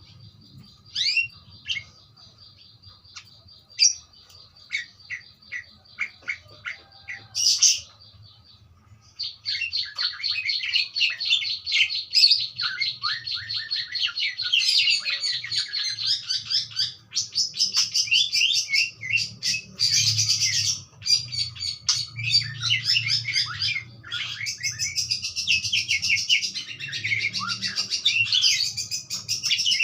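Budgerigars chirping and warbling: scattered short chirps at first, then from about nine seconds in a continuous, dense warbling chatter.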